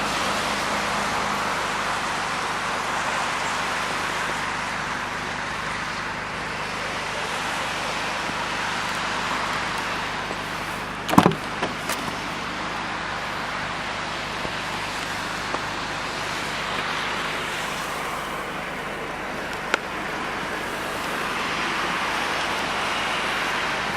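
Steady motor-vehicle and road-traffic noise with a low hum, broken by a single sharp thump about eleven seconds in and a faint click near twenty seconds.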